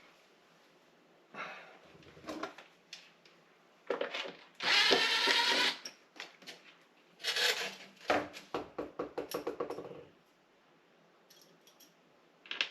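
Hands working the wire connectors off a refrigerator's water inlet valve: intermittent plastic scraping and rubbing, loudest in a scrape of a little over a second near the middle, followed by a quick run of rattling clicks.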